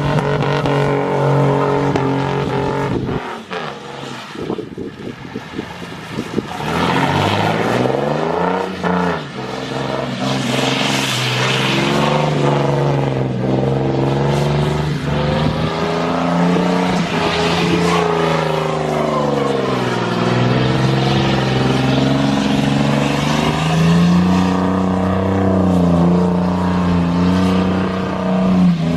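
Chevy Silverado single-cab pickup's engine revved hard again and again for a burnout, its pitch climbing and falling over and over, with a brief easing off a few seconds in.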